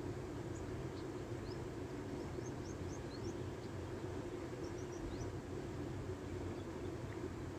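Steady low motor hum, with small birds giving short, high chirps several times, mostly in the first half and again about five seconds in.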